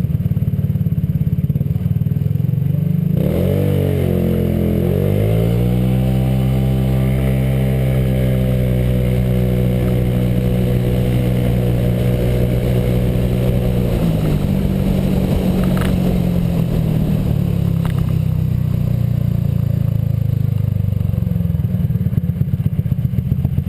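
Honda PCX scooter's single-cylinder engine with a J.Costa variator and exhaust, running under way: the revs climb a few seconds in, hold steady at a higher pitch for about eight seconds, then drop back about two-thirds of the way through and run on lower.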